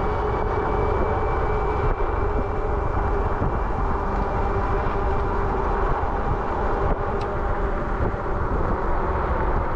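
Steady wind rush and rumble on the microphone while riding an electric bike, mixed with continuous tyre and drivetrain noise.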